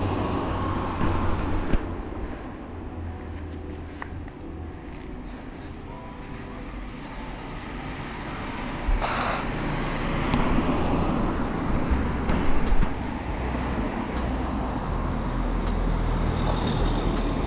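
Road and traffic noise heard while riding, with a steady low rumble, scattered clicks and a louder rush about nine seconds in.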